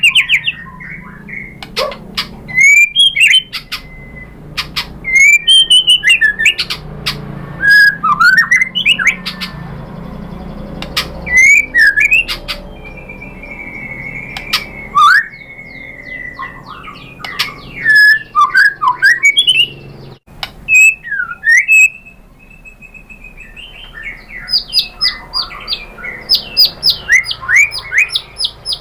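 White-rumped shama (murai batu) singing: bursts of loud, varied whistles, slurred notes and sharp clicking rattles with short pauses between phrases. Near the end it breaks into a fast string of repeated notes, about three a second.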